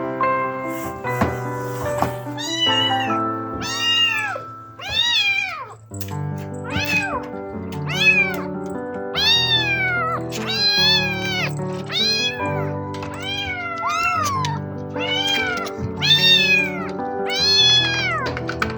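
Kitten meowing over and over, more than a dozen short high calls that each rise and fall in pitch, over background music.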